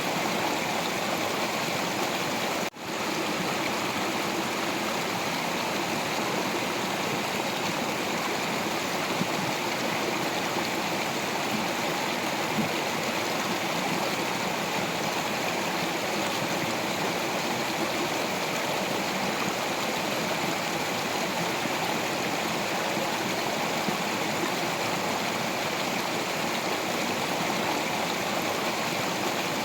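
Stream of water flowing over rocks: a steady rush of running water, cutting out for an instant about three seconds in.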